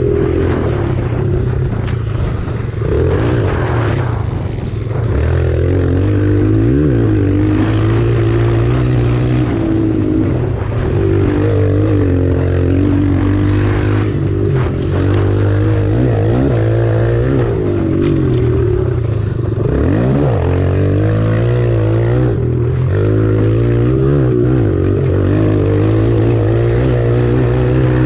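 Kawasaki KLX140 single-cylinder four-stroke dirt bike engine revving hard under riding load, its pitch climbing and dropping again and again as the throttle is worked.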